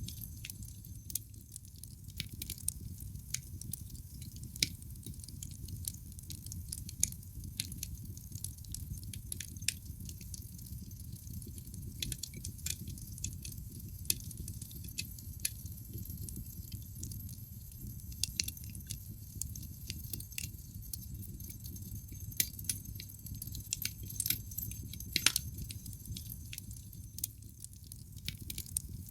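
Wood fire burning in a fireplace: frequent sharp, irregular crackles and pops over a steady low rumble, with a few louder pops about halfway through and near the end.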